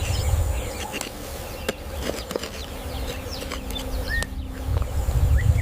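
Savanna ambience: insects buzzing, with scattered short bird chirps over a low rumble that grows louder near the end.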